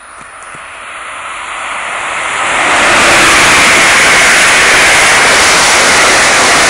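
Amtrak Northeast Regional train led by an ACS-64 electric locomotive passing through the station at speed: a rushing noise that builds for about three seconds as it approaches, then stays loud and steady as the train goes by.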